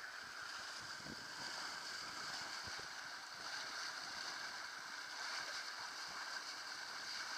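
Water rushing along a sailing boat's hull under way, a steady faint hiss.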